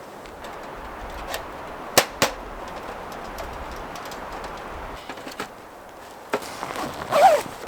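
Two sharp cracks about a quarter second apart, with a few fainter clicks and a short wavering squeak near the end, over a steady outdoor hiss.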